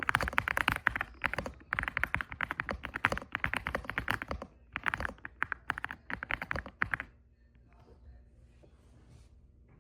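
Typing on an EPOMAKER x Aula F75 gasket-mount mechanical keyboard with Ice Vein switches: fast runs of key presses that stop about seven seconds in.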